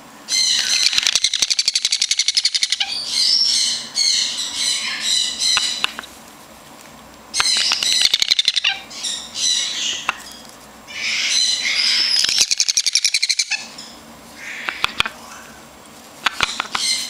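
Young double yellow-headed Amazon parrot calling in about five bursts of rapid, harsh, high-pitched chattering squawks, each a few seconds long with short pauses between.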